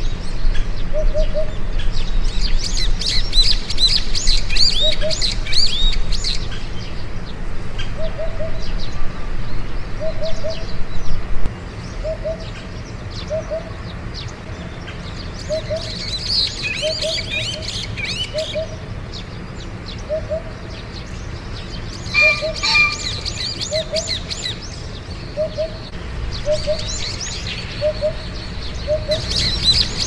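Birds singing: bursts of high, rapid twittering come and go. Under them a short low note repeats about once every second or so.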